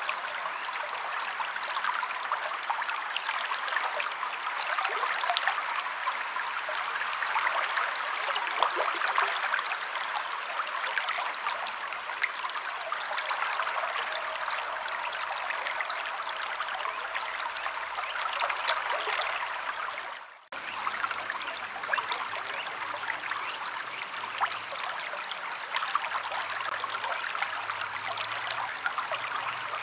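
River water flowing and trickling steadily over rocks, with a short high bird call now and then. The sound cuts out for a split second about two-thirds of the way in.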